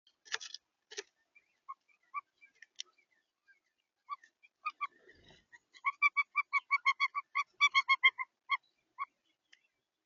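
A bird calling at a feeder: scattered single short notes, then a quick run of short nasal notes, about eight a second, in the second half. Two brief scratchy rustles come right at the start.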